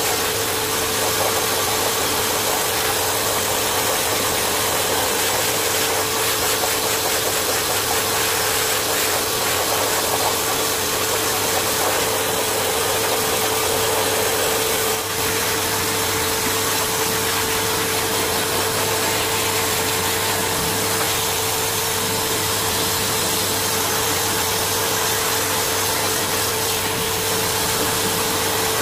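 A small motor running steadily with a constant hum and a strong, even airy hiss, unchanged throughout.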